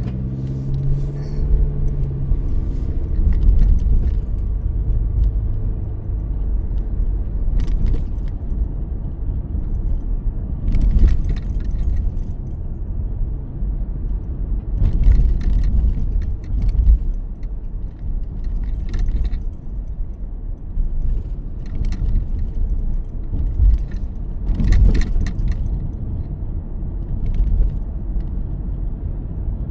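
Car on the move, heard from inside the cabin: a steady low engine and road rumble, with keys jangling in brief rattles every few seconds.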